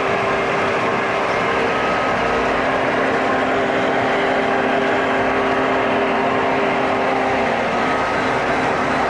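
Model train running steadily on its track: an even mechanical hum of motor, gears and wheels with a few held tones, unchanging in level.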